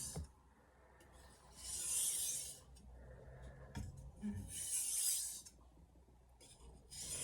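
Stainless steel Santoku blade stroked edge-leading across a wet 1000-grit soaking whetstone: three hissing scrapes about three seconds apart. These are edge-leading passes meant to pull off a burr that is still clinging to the edge.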